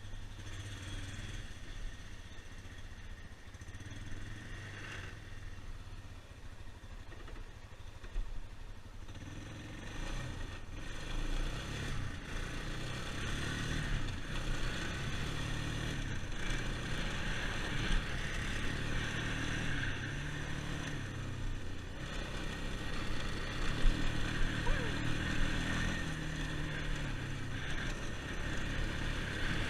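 2001 Yamaha Bear Tracker ATV's single-cylinder four-stroke engine idling steadily, then from about nine seconds in running louder, its pitch rising and falling with the throttle as the ATV is ridden, with wind noise on the microphone.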